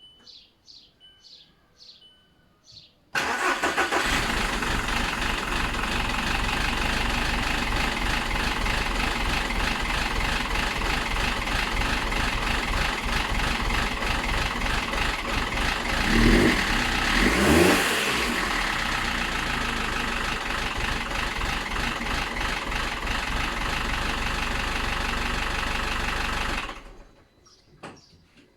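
VW Golf 5 1.4 FSI four-cylinder petrol engine starting about three seconds in, then running with a harsh, busy noise; it is revved briefly, the pitch rising and falling, and is switched off shortly before the end. The noise comes with a P0016 crankshaft/camshaft position correlation fault code.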